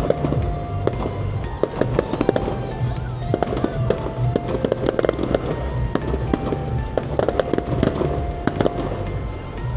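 Fireworks going off in quick, irregular succession, sharp cracks and pops one after another, with music playing alongside.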